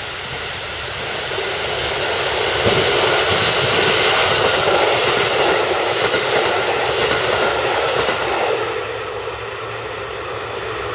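Red passenger train running past at speed on the station tracks. The wheel and rail noise builds over a couple of seconds, stays loud for several seconds as the cars go by, then drops off at about eight and a half seconds.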